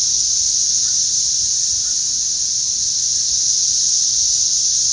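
Loud chorus of cicadas: a steady, high, shrill buzzing drone from many insects at once, unbroken and even in level.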